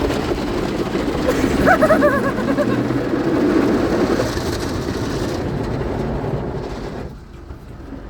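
Automatic car wash heard from inside the car's cabin: a steady rush of spraying water and machinery working over the car, with a brief wavering squeak about two seconds in. The noise drops away about seven seconds in.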